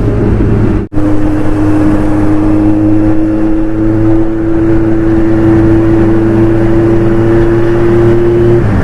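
Kawasaki Z900's inline-four engine through an aftermarket exhaust, running steadily under light throttle while riding, its pitch creeping slowly upward. The sound cuts out for a moment about a second in, and the pitch eases down slightly near the end.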